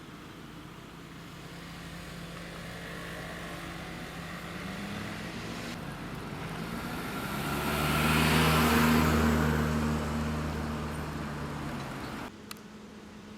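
A motor vehicle passing close by: its engine and road noise build, peak about two-thirds of the way in, then fade, and the sound cuts off abruptly near the end.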